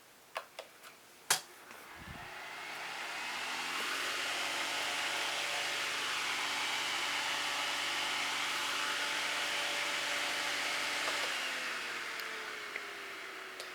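A few clicks, then a Holmes Blizzard oscillating desk fan starts and spins up, its motor hum rising in pitch into a steady rush of air. About eleven seconds in, the hum falls in pitch and the rush fades as the fan slows down.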